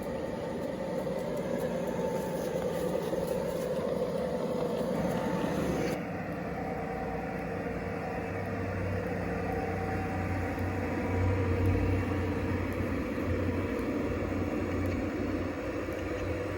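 G scale model locomotive running, a steady electric motor and gear hum with a low rumble. The sound changes abruptly about six seconds in.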